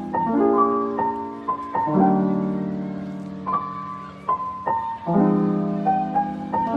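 Background music: soft, slow piano chords with a melody above them, each note struck and left to fade.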